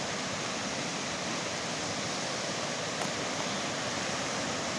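River running high and fast after heavy rain, a steady rushing of water.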